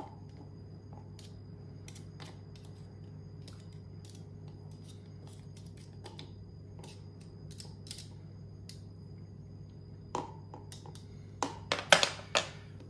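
Light, scattered clicks and taps of kitchen utensils over a steady low hum, with a cluster of louder knocks near the end.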